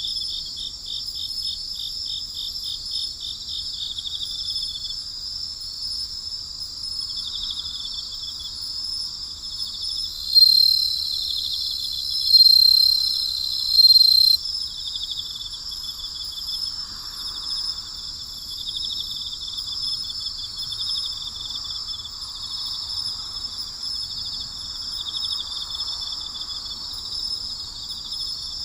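A night chorus of crickets: several high trills overlap steadily, one of them pulsing rapidly. A louder, even trill comes in about ten seconds in and stops after about four seconds.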